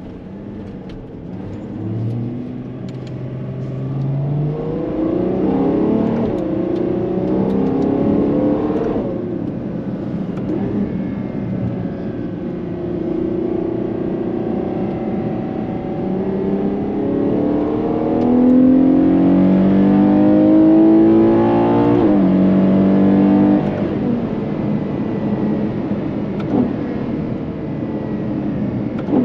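Ferrari Purosangue's naturally aspirated V12 accelerating hard through the gears. The engine note climbs in two long runs, each broken by a quick upshift that drops the pitch, the first about nine seconds in and the second, louder one about twenty-two seconds in.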